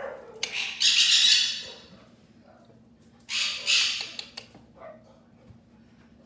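Pet parrot squawking loudly: two long, harsh squawks about two and a half seconds apart, with a few faint short calls after them.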